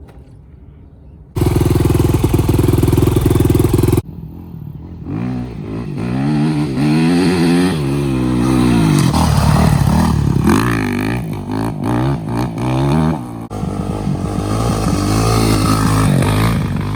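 Dirt bike engines, cut together: a loud steady run about a second in, then the engine revving up and down again and again as the bike is ridden, its pitch rising and falling, with an abrupt change near the end.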